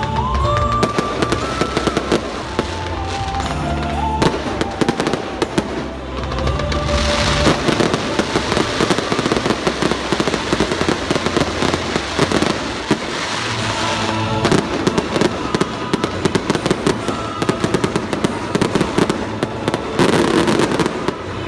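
Victory fireworks going off in rapid succession, a dense run of bangs and crackling that thickens about seven seconds in, over music.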